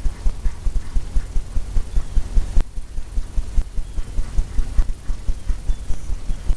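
Paintbrush dabbing quickly against a stretched canvas, a steady run of dull low thumps about five or six a second.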